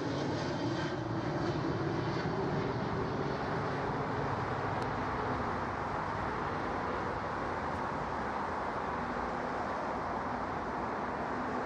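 Jet aircraft engines running, a steady noise with a faint hum that fades over the first few seconds.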